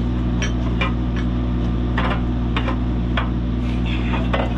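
An engine idling steadily, with about nine sharp metallic clicks and taps at irregular moments, typical of nuts, bolts and tools being handled while an engine is bolted onto its mounts.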